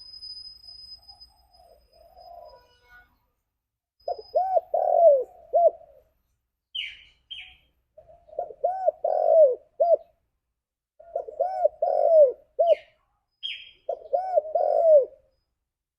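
Spotted dove cooing: four phrases of several rounded, hollow coos each, coming every three to four seconds, with brief higher chirps of another small bird between the phrases.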